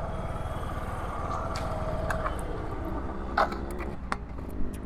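Yamaha Ray Z scooter's single-cylinder four-stroke engine idling steadily, warm, with its idle set too high, before the carburettor idle screw is turned down. A few light clicks sound over it.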